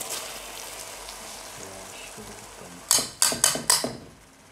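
Basmati rice sizzling as it fries in hot oil in a pot, then about five loud, quick scrapes of a utensil stirring the rice against the pot about three seconds in.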